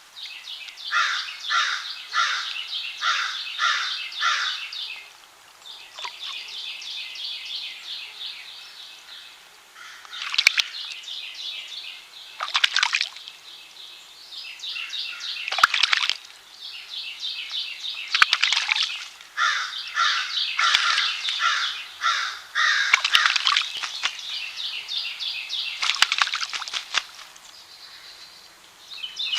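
American crow cawing repeatedly, with several brief bursts of splashing water as it bathes in a spring.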